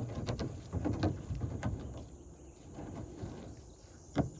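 Kayak being climbed out of and dragged across a shallow riverbed: a series of hollow knocks and scraping from the hull, with the sharpest knock near the end.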